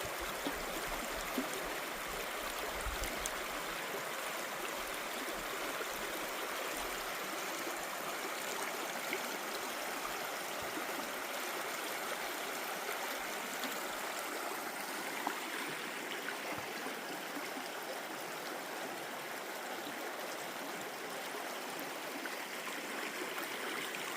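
Steady rushing of a forest creek, with a few faint ticks and knocks.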